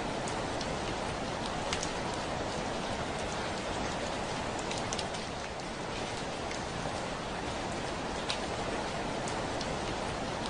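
Steady rain falling, with scattered sharp ticks of individual drops striking a window.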